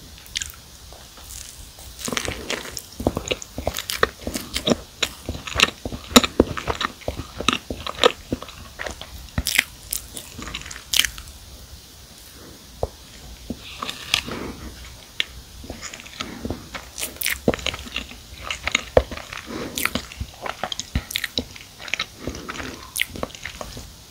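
Close-miked biting and chewing of soft-baked s'more cookies filled with marshmallow. Many small crisp crunches come from the crust and crumbs, with a short lull about halfway.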